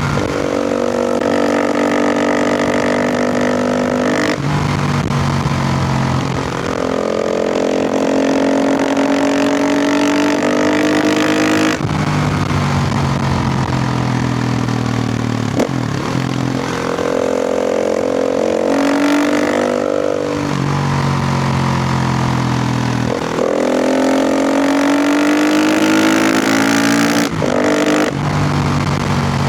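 KTM EXC 450's single-cylinder four-stroke engine ridden hard, its pitch climbing with the revs and then dropping back sharply, about six times in a row, as the rider works through the gears and throttle.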